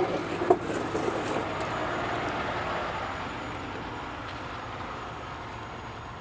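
A vehicle passing on the road, its noise swelling then slowly fading away, after a couple of sharp knocks about half a second apart near the start.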